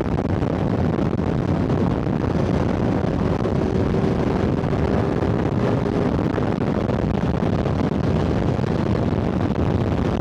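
Wind buffeting the rider's microphone while riding a sport motorcycle at highway speed, a steady rush with the engine's even drone underneath and no gear changes or revving.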